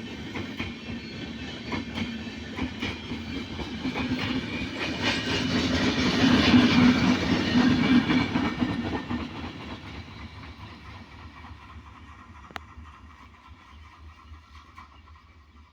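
A passing train's wheels clattering over rail joints, the clatter and rumble building to a peak about halfway through and then fading as it moves away.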